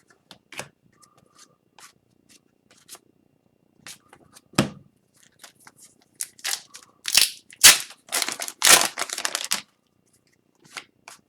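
Upper Deck hockey cards being flipped and slid through by hand: scattered soft clicks and snaps, then a run of louder papery rustles and flicks from about seven seconds in.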